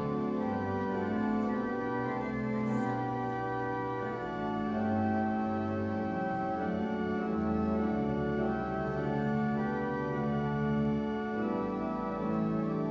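Church organ playing the prelude: full, sustained chords over low bass notes that change every second or two.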